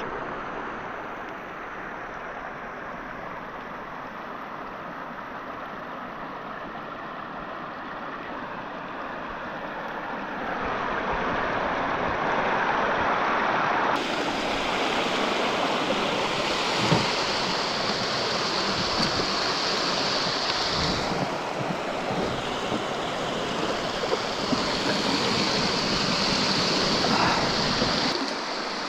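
Steady rushing of running water, getting louder about ten seconds in.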